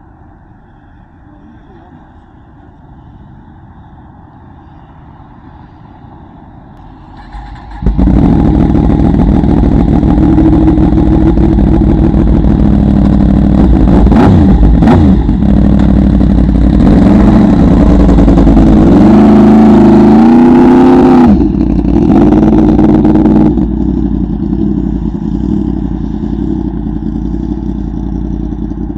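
Yamaha R1M's crossplane inline-four engine, low at first, then suddenly loud under hard acceleration about eight seconds in, its pitch rising and falling through gear changes. It eases off near the two-thirds mark and drops back to a lower drone.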